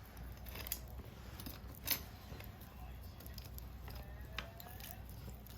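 Wood fire burning in a homemade stainless-steel-bowl secondary-combustion stove: a few sharp pops or clinks over a low steady rumble, the loudest pop about two seconds in.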